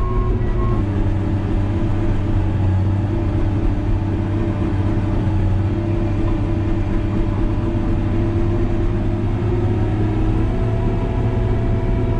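New Holland D180C crawler bulldozer's diesel engine running steadily under load, heard from inside the cab, its pitch shifting slightly a couple of times as it pushes fill. A repeating beep sounds briefly at the start.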